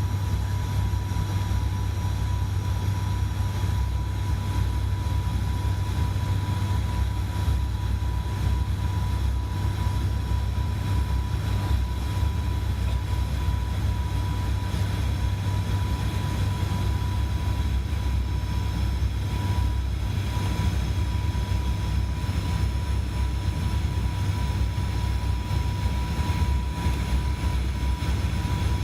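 Steady cabin drone of an ATR 72-600 turboprop airliner in flight: a low propeller hum with a thin, steady whine above it.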